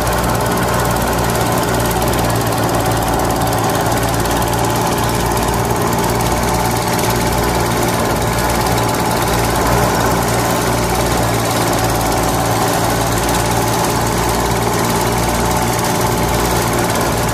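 Miniature paddy thresher, its wire-toothed drum belt-driven by the small motor of a toy diesel engine, running steadily while rice stalks are held against the spinning drum.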